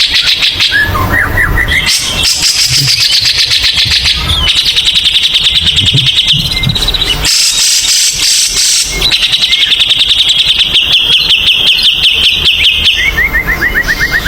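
White-rumped shama (murai batu) singing loudly in its rapid-fire 'tembakan' style: long runs of very fast repeated high notes, each lasting a few seconds, broken by shorter, lower rattling series near the start and the end.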